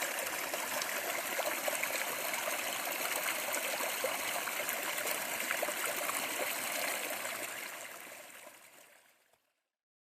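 Mountain stream rushing and burbling over rocks, a steady wash of water that fades out about two seconds before the end.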